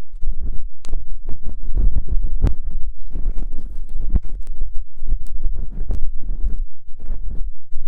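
ASMR ear-cleaning sounds: a tool scraping, rubbing and tapping right at a microphone ear, a dense, irregular run of close crackly scratches and taps with a heavy low rumble.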